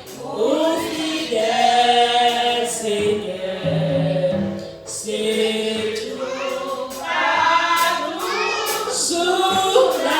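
Group of voices singing together in a church worship song, with long held notes and a short break about five seconds in.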